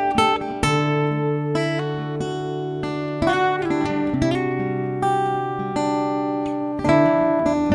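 Acoustic guitar music: picked notes that ring on over held bass notes.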